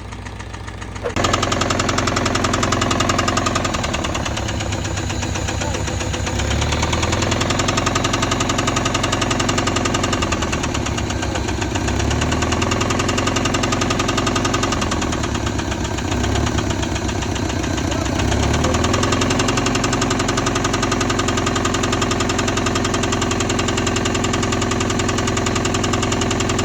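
Honda Civic engine running with a rapid, rhythmic rod knock, getting louder about a second in. The owners take the knock for a worn connecting-rod bearing.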